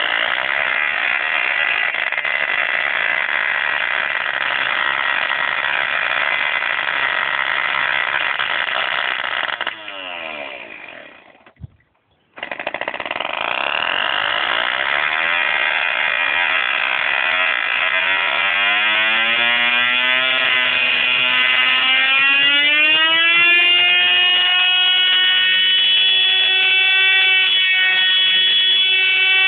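Small model engine running loudly at high revs. About a third of the way through it fades out and goes silent for under a second, then comes back. From a little past halfway its pitch climbs steadily to a high, steady whine as it reaches full revs.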